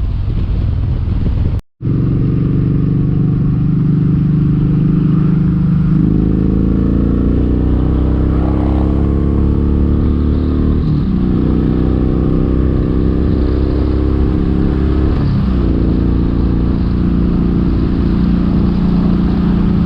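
Kawasaki Vulcan 1700 Vaquero's V-twin engine running under way, loud and steady. Its pitch climbs as it accelerates from about six seconds in, with brief dips near eleven and fifteen seconds. The sound cuts out for a moment about two seconds in.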